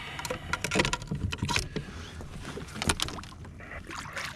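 Water slapping against the hull of a drifting jet ski, with irregular sharp knocks and splashes over a steady low rumble.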